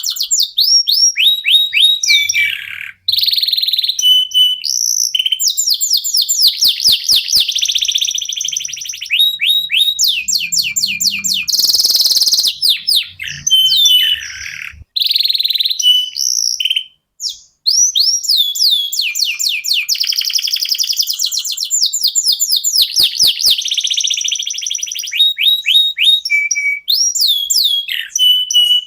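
Domestic canaries singing: fast trills of rapidly repeated chirps, swooping whistles and buzzy rolls, broken by a few short pauses.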